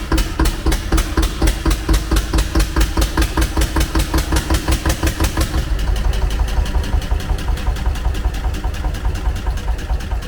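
Single-cylinder Ruston Hornsby stationary engine running steadily, a loud even beat of about six firing strokes a second. About six seconds in, its tone changes slightly.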